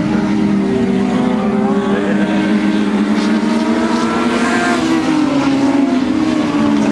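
A field of dwarf race cars running under racing speed, several motorcycle-based engines heard at once, their pitches rising and falling over one another.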